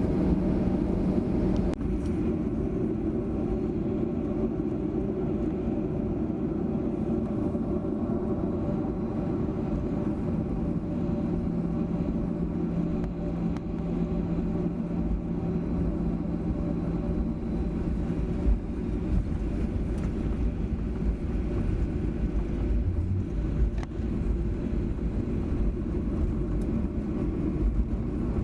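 Cabin noise inside a Boeing 737-800 taxiing after landing: a steady rumble and engine hum from its CFM56 engines at idle. A low hum joins in from about a third of the way through to about two-thirds.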